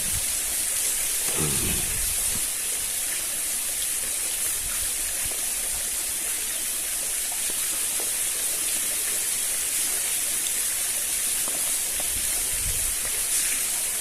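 Steady sizzling hiss of food frying in a pan, with a few faint knocks.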